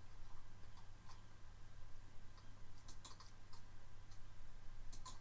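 A few faint, sharp clicks, some in pairs, about two seconds apart, over a steady low hum.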